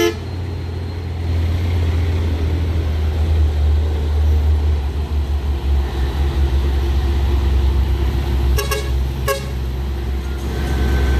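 Heavy truck diesel engine running with a steady low rumble, and two short horn toots less than a second apart near the end.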